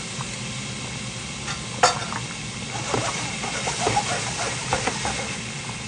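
Minced garlic and shallots sizzling in hot oil in a stainless steel pan. There is a sharp knock a little under two seconds in, then a run of small scraping clicks as the pan is stirred.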